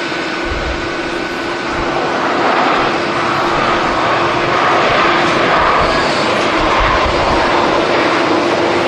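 Jet airliner engines running as a passenger jet passes, the roar growing louder about two seconds in and holding there. Strong wind buffets the microphone with deep rumbling gusts.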